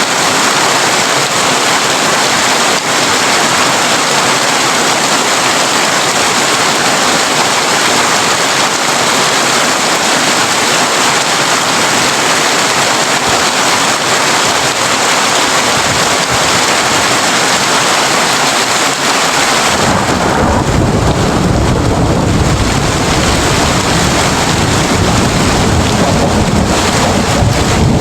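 Heavy rain drumming steadily on a tin roof. About two-thirds of the way through, a deep rolling thunder rumble comes in and carries on under the rain.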